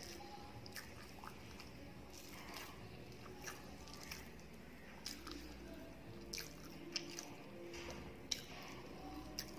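Close-miked chewing of a mouthful of rice and curry eaten by hand, with scattered sharp, wet clicks of lips and tongue.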